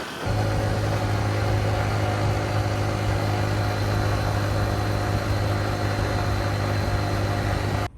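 Honda XR150L's small air-cooled single-cylinder engine running at a steady cruising pitch, with wind and road noise rushing past; it cuts off suddenly near the end.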